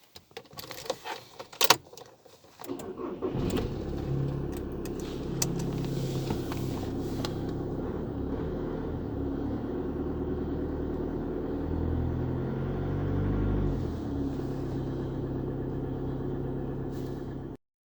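A few sharp clicks and knocks, then a car engine starts about two and a half seconds in and settles into a steady idle. It briefly revs a little louder about twelve seconds in, then idles again until the sound cuts off suddenly near the end.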